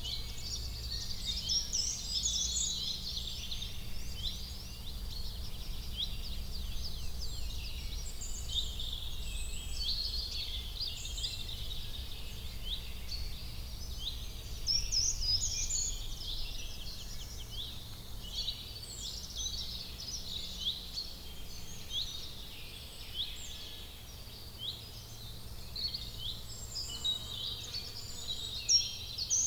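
Many small birds chirping and calling at once, a dense run of short, quick sweeping notes, over a faint steady low hum.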